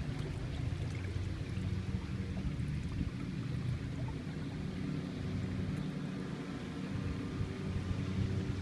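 Canoe's small electric trolling motor running steadily on its top speed setting of 5, a low steady hum, with water rushing along the hull and wind on the microphone.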